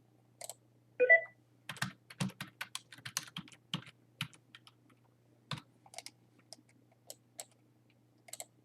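Typing on a computer keyboard: irregular, quick keystrokes with short pauses. A single louder, short sharp sound comes about a second in.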